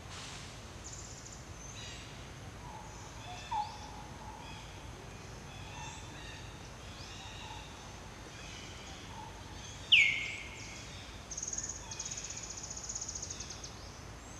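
Forest ambience with birds calling throughout. About ten seconds in, one loud, sharp call drops quickly in pitch. A high buzzing trill follows for about two seconds.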